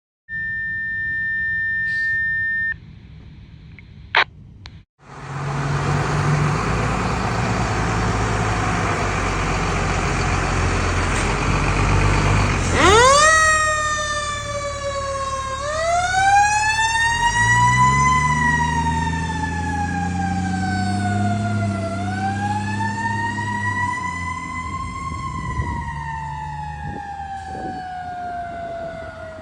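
A steady tone for about three seconds and a short beep. Then the 2001 Ferrara Inferno fire engine runs with a steady rushing noise over its engine hum. About thirteen seconds in its siren winds up sharply, then rises and falls in long slow wails over the engine, which revs up near the middle.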